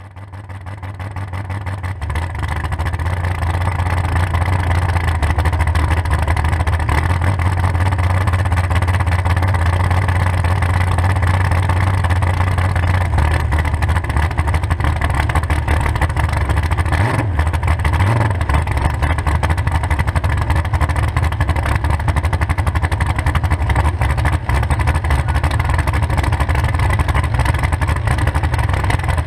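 A demolition derby muscle car's engine running at a steady idle through two short open exhaust pipes standing up through the hood, loud and close. It fades in over the first few seconds and then holds level.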